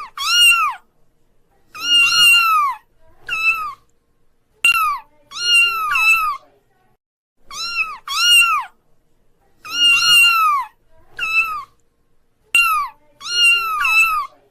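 Kittens meowing over and over in high, thin calls, each rising then falling in pitch, about one or two a second, with some calls overlapping.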